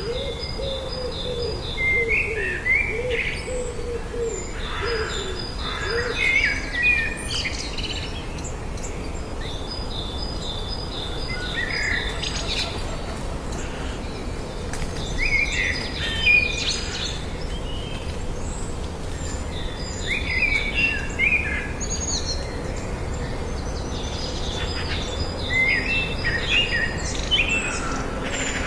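Birds singing and calling, with a song phrase returning every few seconds and a run of lower, wavering calls in the first few seconds, over a steady low background noise.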